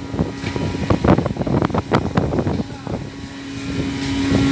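Fishing boat at sea: engine running with a steady hum, irregular knocks and clatter, and wind on the microphone.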